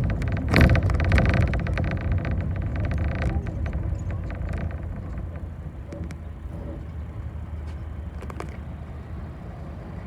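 City bus running, heard from inside, with engine and road noise and rattling; a loud knock comes about half a second in, and the noise dies down over the second half.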